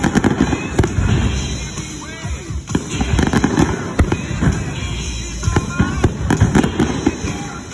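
Fireworks going off in quick succession: low booms and many sharp pops, with music playing underneath.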